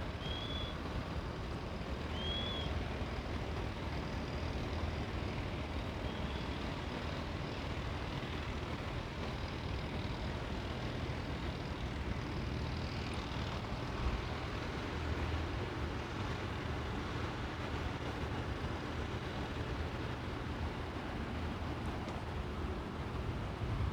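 Steady city background noise with a low traffic hum. A few short, high chirps sound in the first several seconds.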